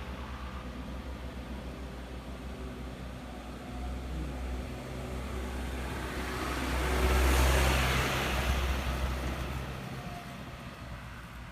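Heavy diesel vehicle labouring up a steep climb, its engine running at a steady low pitch. It passes close, loudest about seven seconds in, then fades.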